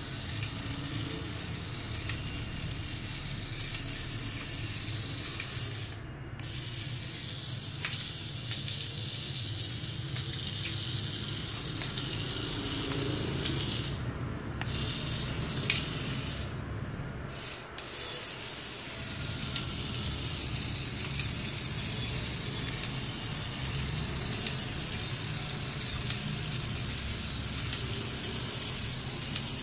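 Mini remote-control stunt dump truck's small electric motors and gears whirring with a hissy, steady noise, cutting out briefly three times.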